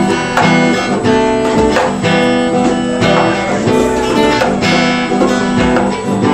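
Acoustic guitar strummed in a steady rhythm, with chords restruck about twice a second and no singing: an instrumental bar of an unplugged pop song.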